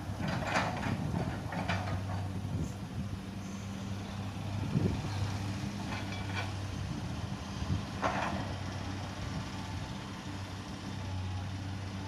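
Truck's diesel engine running steadily, with a few short hissing bursts over it: about half a second in, near two seconds, and around six and eight seconds.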